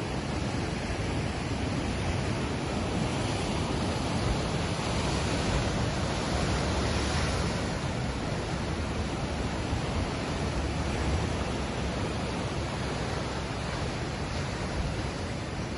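Ocean waves washing in as a steady rush of surf, with one gentle swell about halfway through.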